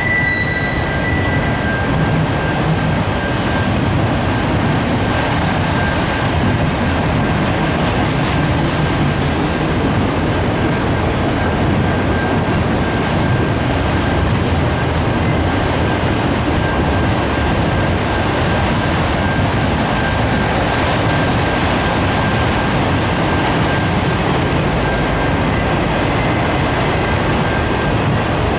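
Cars of a long CSX freight train, mostly empty autoracks, rolling steadily past with a continuous rumble of wheels on rail. A thin, steady high-pitched squeal runs over it throughout, and a second squeal fades out about a second and a half in.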